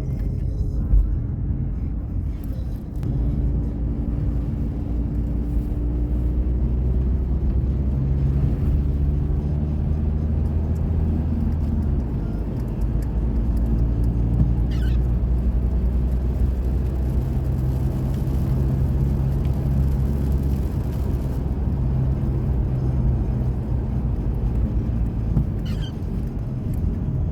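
Steady low rumble of a car driving, with an engine hum that shifts pitch a few times. Two brief faint high chirps come through, about halfway and near the end.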